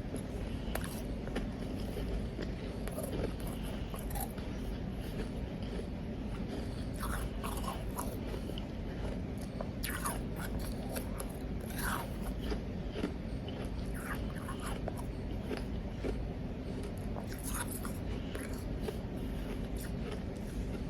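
Close-miked biting and chewing of powdery ice, with many short, irregular crunches.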